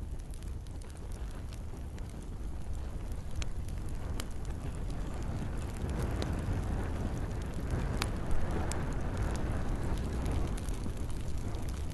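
Campfire crackling, with scattered sharp pops and one louder pop about eight seconds in, over a steady low rushing of rain.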